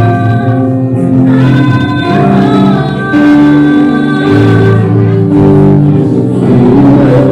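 Church praise and worship music: singing with instrumental accompaniment, in long held notes.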